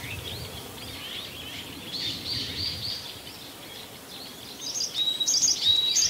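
Forest birds chirping: a run of short high chirps about two seconds in, then a repeated high song phrase that grows louder near the end.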